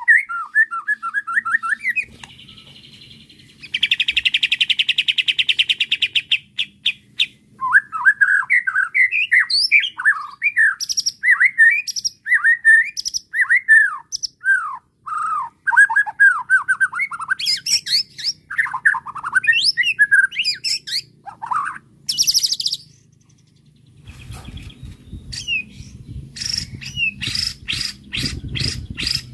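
White-rumped shama (murai batu) in agitated, aggressive full song. A fast, varied run of whistled slurs is broken by long buzzing rattles early on, a harsh high buzz about two-thirds through, and rapid ticking chatter near the end. The song is packed with mimicked fill-in phrases.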